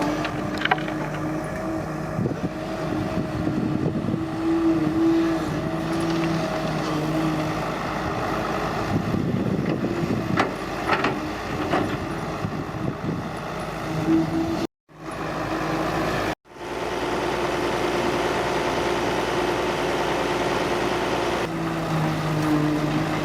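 Excavator's diesel engine running under working load, its pitch shifting now and then, with occasional knocks. The sound cuts out to silence twice, briefly, about two-thirds of the way through.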